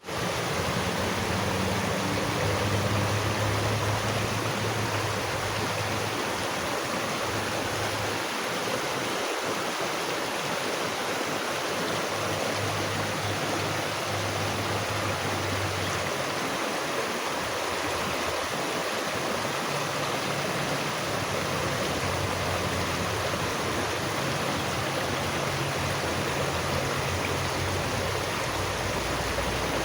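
Running water rushing steadily, as from a stream, with a low hum that comes and goes underneath.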